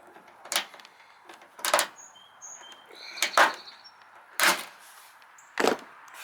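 Hand rivet gun being squeezed on a downspout rivet: five sharp clacks roughly a second apart.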